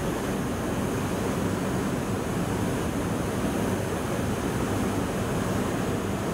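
Steady rumbling hum of a 721 series electric train standing at the platform, its onboard equipment running, with no sudden sounds.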